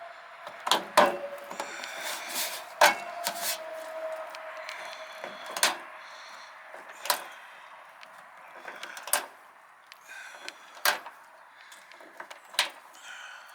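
Hand rivet gun at work on a metal downspout: a string of sharp clicks and clunks, one every second or two, as the handle is squeezed and the rivets set.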